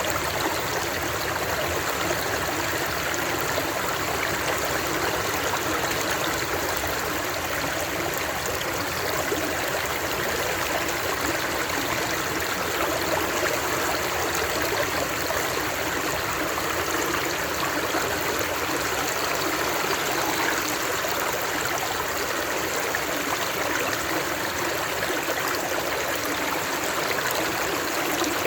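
Running water of a stream, a steady, even rushing and trickling with no breaks.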